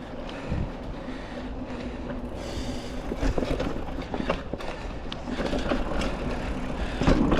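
Mountain bike rolling over a dirt trail on tubeless tyres, with a steady rumble of tyres on the ground and irregular knocks and rattles from the bike as it goes over bumps.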